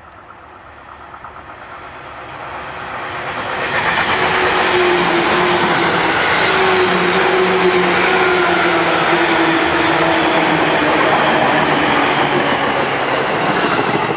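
Seibu 2000 series electric commuter train approaching and running close past, its wheels rumbling and clattering on the rails. Its traction motors hum with a few tones that drift slightly downward as the train slows for the station. The sound builds over the first few seconds, then stays loud as the cars go by.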